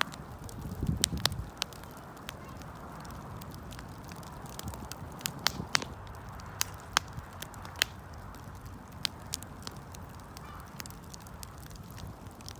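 Wood fire burning, with a steady low rush and irregular sharp crackles and pops from the burning wood, a few of them loud.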